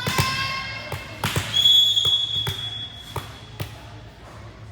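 A volleyball being struck and bouncing on a gym floor, heard as a series of sharp thuds. About a second and a half in, a referee's whistle is blown once, a single steady high note held for about a second.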